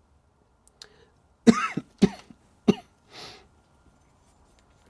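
A man coughing three times in quick succession, then a breath out.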